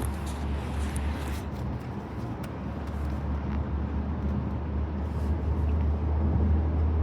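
A few faint, distant firework bangs in the first couple of seconds, over a steady low rumble that slowly grows louder.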